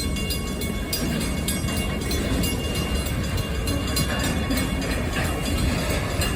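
CSX freight train rolling past, a steady low rumble of cars and wheels on the rails with faint scattered clicks.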